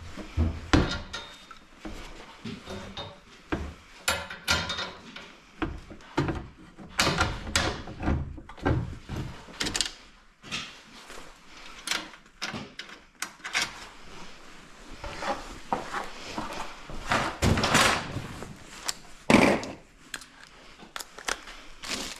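Hands-on repair work on a garage door opener: irregular knocks, clicks and scrapes of tools and parts being handled, with a louder rattle in the latter part.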